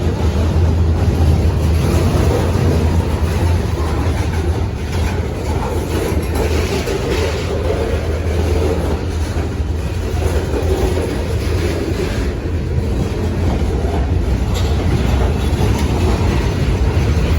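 Train rolling past, its cars running steadily over the rails.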